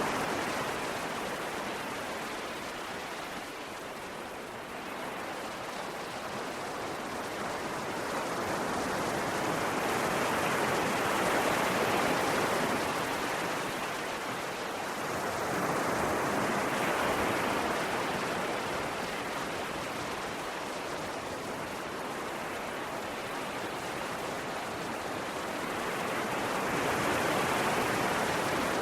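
Ocean waves washing onto a shore, a steady rush of surf that swells and eases slowly, with about three broad swells.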